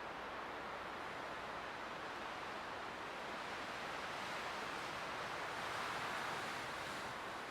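Light winter wind blowing, a steady soft rushing that swells gently about five to six seconds in and eases again near the end.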